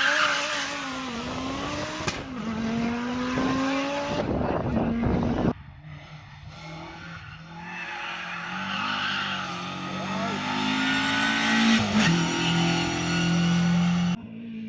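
Rally car engines revving and accelerating, the pitch climbing and falling with gear changes. About five seconds in the sound cuts abruptly to a quieter engine that builds up again.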